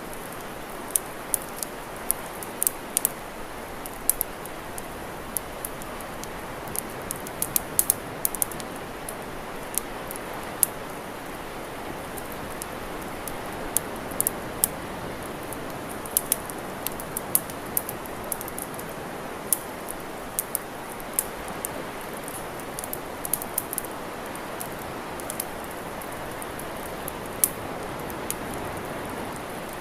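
Campfire crackling: irregular sharp pops and snaps, sometimes several a second, over a steady rushing noise.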